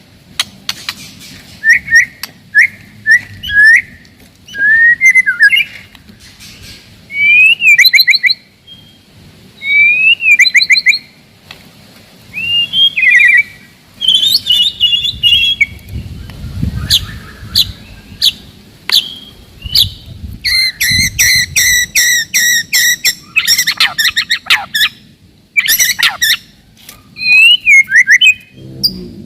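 White-rumped shama (murai batu) singing a dense, rapid-fire song: clear whistled notes gliding up and down, mixed with sharp clicks and chattering runs, with a long burst of fast repeated notes about two-thirds of the way through.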